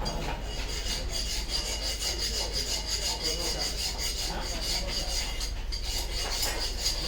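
Rapid, repeated rubbing or rasping strokes, likely metal being rubbed or scraped by hand.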